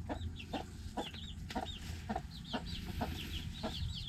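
Chicks peeping, with many short, high peeps in quick succession, over low, soft clucking from a hen, about two clucks a second.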